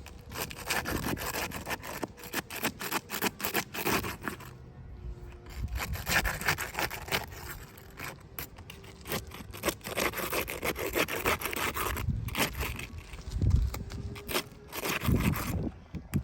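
Rapid, continuous scraping and rubbing strokes, in stretches with short breaks about four and a half and eight seconds in.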